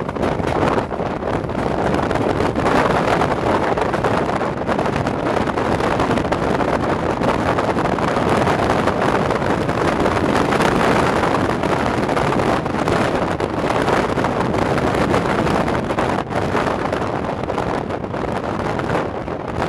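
A moving passenger train heard from an open coach window: wind rushing over the microphone over the steady rumble of the train running along the track.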